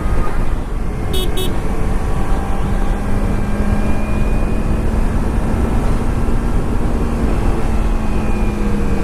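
Kawasaki Ninja 300's parallel-twin engine running steadily on the move, with road and wind noise. A horn gives two short beeps about a second in.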